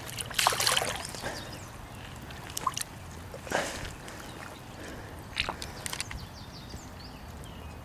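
Water splashing and sloshing in a few short bursts, the loudest about half a second in, as a carp is let go back into the creek, with a few sharp clicks in between.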